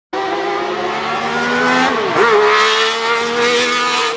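Honda T360's small high-revving DOHC inline-four engine pulling under load, its pitch climbing steadily; about two seconds in the revs drop sharply and recover, then hold high and slowly climb again.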